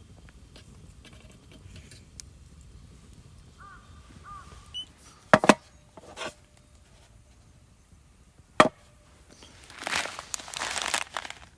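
Camp gear being handled: a quick double knock about halfway through, another knock just after and one more later, then a second or so of rustling near the end.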